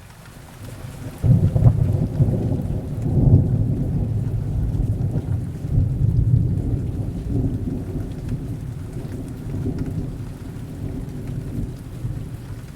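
Thunder over steady rain: about a second in, a low rumble breaks in suddenly, swells again a few times and slowly dies away.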